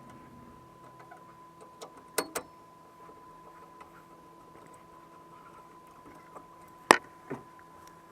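Sharp clicks and knocks of tools and metal parts being handled at a gas furnace: two close together about two seconds in, and a louder pair near the end. Under them runs a steady faint hum with a thin high whine.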